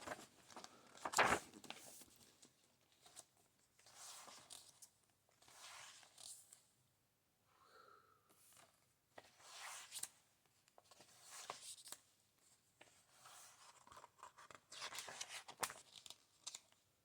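Paper pages of a large, thick book being turned one by one: faint swishing rustles every couple of seconds.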